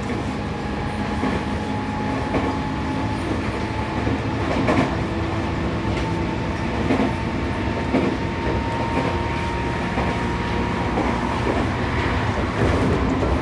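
Seibu 6000 series electric train with Toshiba IGBT inverter control, heard from inside a motor car while running: a steady rumble with a thin motor whine that rises slowly in pitch, and the wheels clicking over rail joints about once a second.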